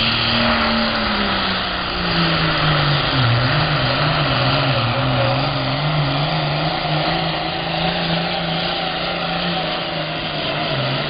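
International 1466 pulling tractor's turbocharged diesel engine running hard under load down the track. Its pitch falls over the first three seconds, then holds with a slight waver.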